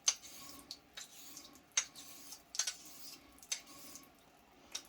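A 6/8 quarter-hollow straight razor honed on a wet sharpening stone with light heel-to-toe X strokes: a faint scrape of steel on stone and a sharp click about once a second as the blade is turned over on its spine. These light finishing strokes refine the apex before the move to a finer stone.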